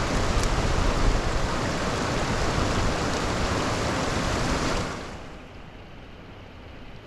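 Rushing floodwater, a loud steady rush that falls away sharply to a quieter, duller rush about five seconds in.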